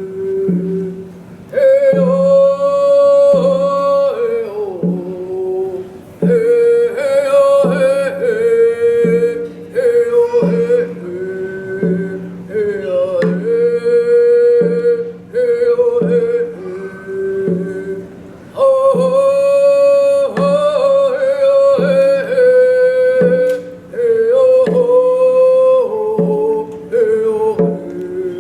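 Musqueam ceremonial drummers singing a welcome song together, voices carrying a chanted melody over a steady hand-drum beat about once a second.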